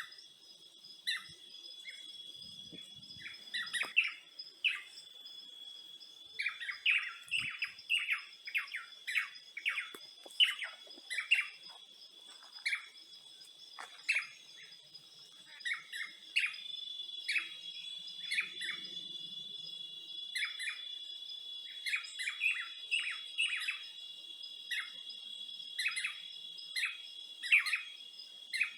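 Forest birds chirping: many short, downward-sliding chirps, some in quick runs, over a steady high-pitched insect drone.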